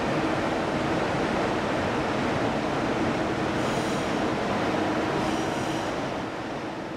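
DB electric locomotive rolling slowly past at close range: a steady rumble with a running hum, and two brief high-pitched wheel squeals in the second half. The sound fades near the end as the locomotive draws away.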